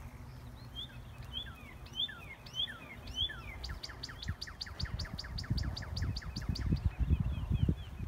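A songbird singing: a few repeated slurred whistled notes, then a fast, even trill of about seven notes a second that softens near the end. Low rumbling thumps come in from about halfway and are the loudest sound.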